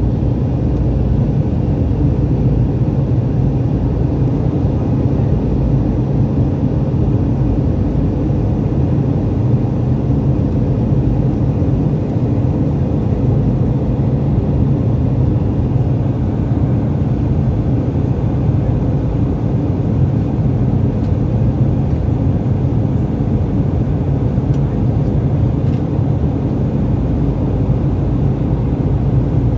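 Steady low rumble of a jet airliner's engines and airflow heard inside the passenger cabin.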